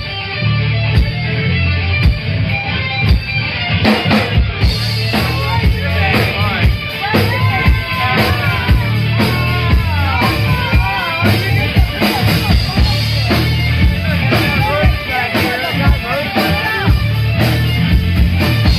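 Live rock band playing loudly, with a pounding drum kit and electric guitars. A voice sings over the band from about six seconds in.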